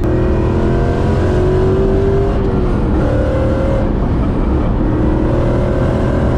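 Supercharged BMW S62 4.9-litre V8 with a straight-piped exhaust, heard from inside the car while driving. The engine note climbs in pitch as it pulls, changes about two and a half seconds in, then holds and rises again.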